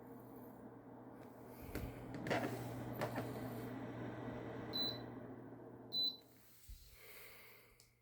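Bladeless fan running with a steady hum and a rush of air. Two short electronic beeps from its controls come near the end, after which the airflow fades away.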